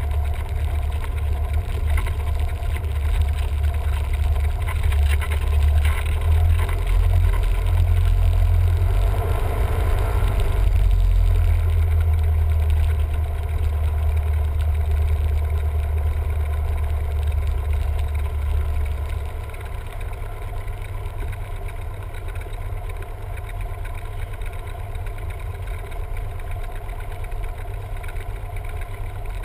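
Cessna 172M's four-cylinder piston engine and propeller droning steadily, with a deep engine hum; the drone drops a little in level about two-thirds of the way through, as with a power reduction.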